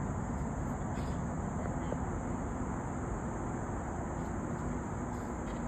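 Steady high-pitched insect chorus, unbroken throughout, over a constant low rumble.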